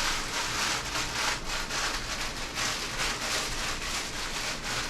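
Plastic bag of shredded cheese rustling and rubbing in quick, irregular strokes as the cheese is worked out over the casserole.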